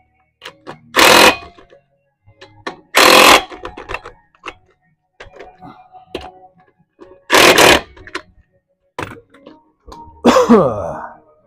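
Impact wrench driving lug nuts onto a truck wheel in four short bursts, the last winding down in pitch, with small clicks and knocks between them.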